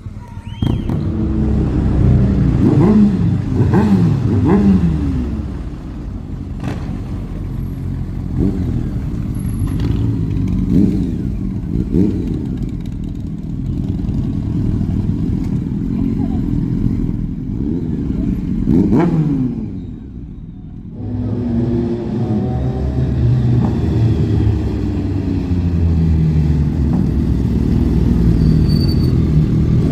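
Several motorcycle engines running and arriving, revving up and down in pitch, with a cluster of revs a few seconds in and another about two-thirds through, then a brief lull before the engines pick up again.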